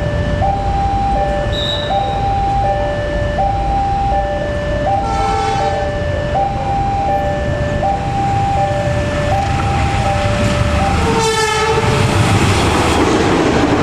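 Railway level-crossing alarm sounding its steady alternating two-tone warning. A train horn blows twice over it, a short blast about five seconds in and a louder one near eleven seconds, then the rushing noise of the approaching train grows near the end.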